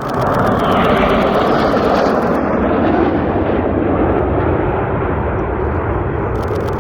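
Loud jet aircraft fly-past: a dense, steady jet noise that comes in abruptly at the start and eases slightly after about three seconds.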